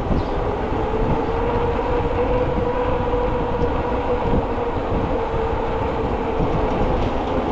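Steady rumble of a bicycle ride, tyres rolling and wind on the microphone, with a steady hum running through it.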